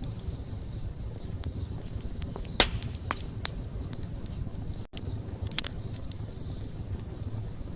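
Wood campfire crackling: a steady low rustle of burning with irregular sharp pops and snaps, the loudest a little over two and a half seconds in. The sound cuts out for an instant near the middle.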